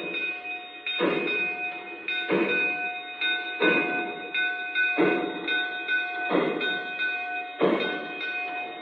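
Sound system of an O scale model steam locomotive standing still: a slow, even chuff about every 1.3 seconds, with a steady tone running underneath.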